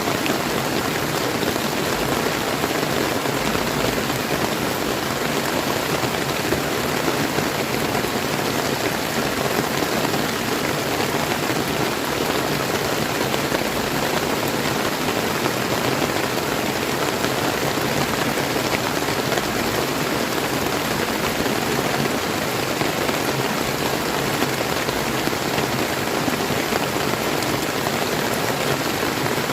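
Steady rain falling together with the flowing water of a clear river, an even, unbroken wash of noise.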